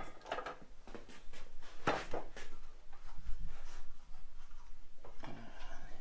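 Handling noise of heavy metal parts: a few sharp knocks and clunks, then a short scrape near the end.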